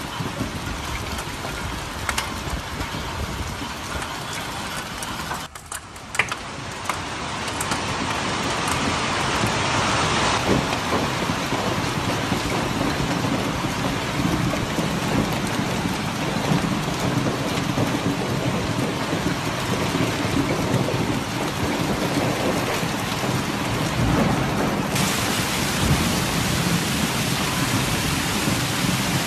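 Heavy downpour of a summer cloudburst, a dense steady hiss of rain. About six seconds in the sound briefly drops out with a couple of sharp knocks, after which the rain is louder.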